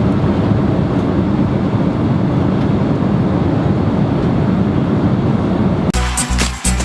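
Steady roar of an airliner cabin in flight, the drone of jet engines and rushing air, heaviest in the low range. About six seconds in, music with a strong beat cuts in.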